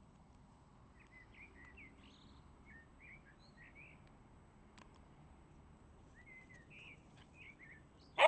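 Songbirds chirping in short, quick phrases, faint over a low background hiss. A sudden loud knock comes right at the end.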